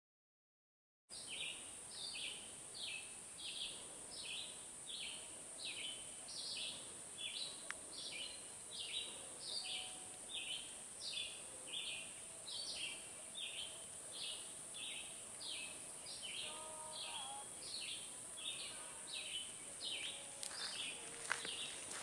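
A songbird repeating a short, high, falling note about twice a second, over a steady high-pitched hiss. A few lower notes from another bird come in later, and a few sharp clicks follow near the end.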